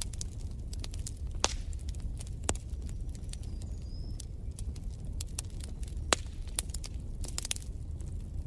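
Wood fire crackling in a fireplace: irregular sharp pops and snaps over a low steady rumble, with a few louder pops, the loudest about six seconds in.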